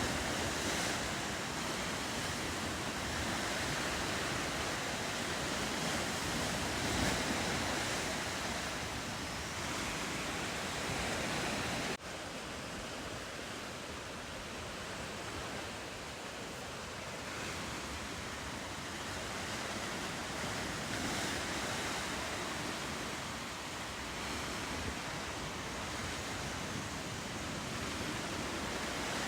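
Ocean surf washing steadily along the shore, an even rushing noise. It drops suddenly in level about twelve seconds in, then carries on.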